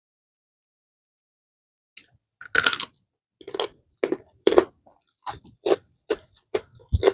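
Crunchy chewing of raw leafy greens, starting about two seconds in, at roughly two crunches a second, the first bites the loudest.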